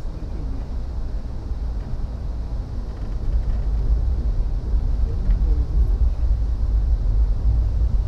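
Low, steady rumble of a passenger train running along the rails, heard from inside the coach, growing louder about three seconds in.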